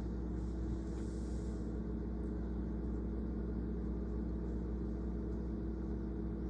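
Steady low machine hum with a constant pitched drone, unchanging in level.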